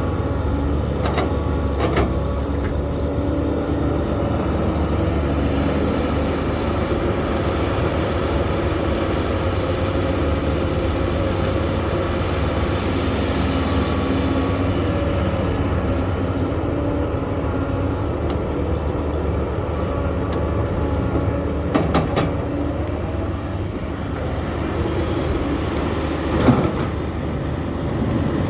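Heavy diesel machinery, excavator and dump truck engines, running steadily under load. A few short knocks are heard, the loudest near the end.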